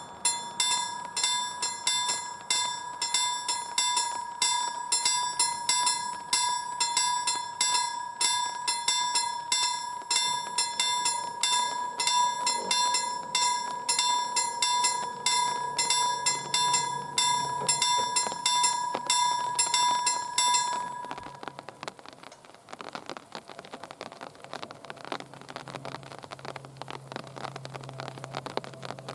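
Level crossing warning bell ringing in quick, evenly repeated strikes, the signal that a train is approaching and the barriers are coming down. It stops about two-thirds of the way in, leaving a steady hiss.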